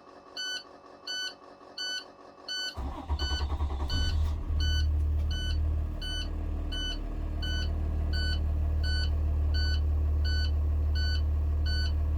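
Cummins diesel engine of an International truck cranking briefly, catching about four seconds in and settling into a steady idle. Throughout, a cab warning buzzer beeps about every 0.7 s.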